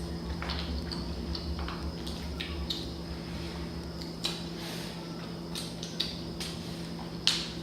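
Close-up eating sounds from a seafood boil: wet clicks, crackles and squishes of shellfish and sauce-covered food being handled and chewed, with a sharper click near the end. A steady low hum runs underneath.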